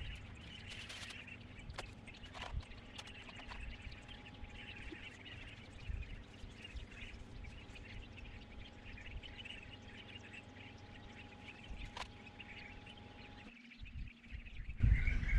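Small birds chirping steadily in the background, with a few light clicks from metal hub parts being handled.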